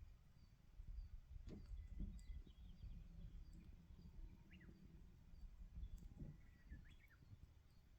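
Very quiet outdoor campfire sound: a few sparse crackles and pops from the burning wood over a low rumble, with a couple of short bird chirps.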